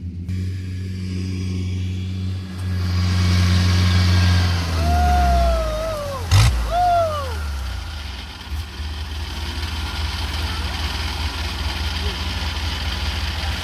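Diesel engine of a farm machine running; its sound swells a few seconds in, then settles to a steady throb. About halfway through come a sharp click and two short falling calls.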